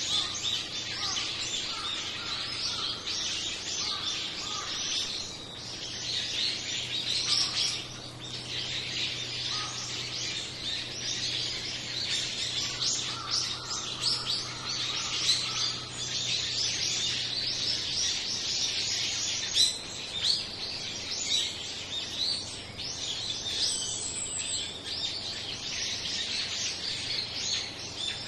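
A flock of small songbirds chirping continuously, many short high calls overlapping from several birds at once.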